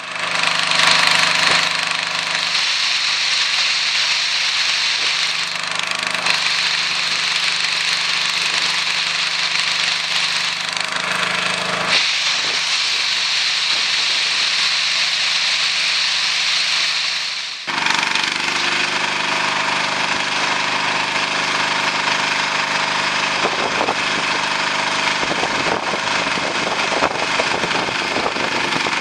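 The engine and machinery of a sargassum weed-harvesting boat running steadily, with a strong hiss over the engine note. The sound changes abruptly a little past halfway through.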